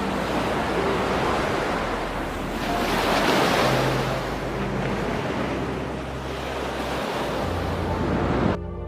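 Ocean surf washing in, swelling to its loudest about three seconds in, then cutting off abruptly near the end.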